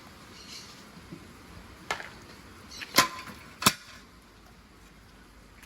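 Baru nuts being cracked open: three sharp knocks of hard strikes on the tough shells, the last two less than a second apart.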